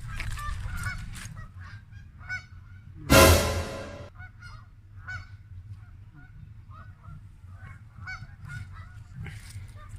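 A flock of waterfowl on a pond giving many short, scattered honking calls. One much louder burst, lasting about a second, comes about three seconds in.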